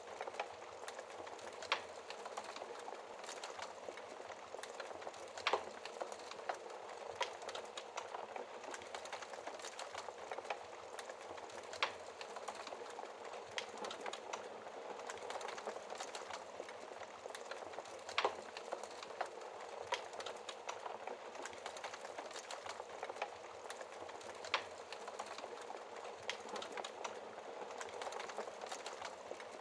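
Wood fire crackling in a fireplace: a steady hiss of small snaps, with a sharper pop every few seconds.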